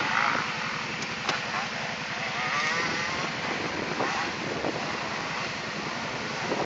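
ATV engine running steadily, with an even low pulsing.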